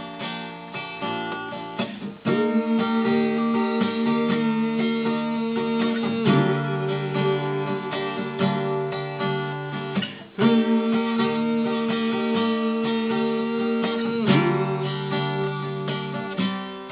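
Acoustic guitar strummed through a chord progression in an instrumental break, the chord changing about every four seconds.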